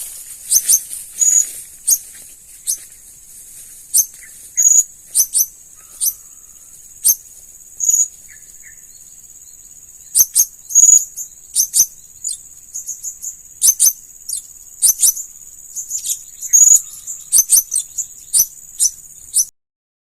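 Blue-crowned hanging parrots (serindit) giving many sharp, very high-pitched short calls at irregular intervals, over a steady high insect drone; the sound cuts off suddenly near the end.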